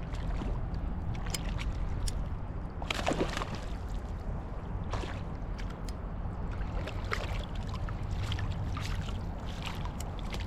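Irregular splashing and sloshing at the water's surface over the steady rush of a flowing river, as a hooked rainbow trout is played in close on a fly rod; the strongest splashes come about three seconds in and again about five seconds in.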